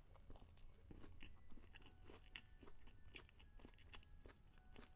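Faint close-miked chewing of a mouthful of crispy fried chicken sandwich: irregular small crunches, a few a second.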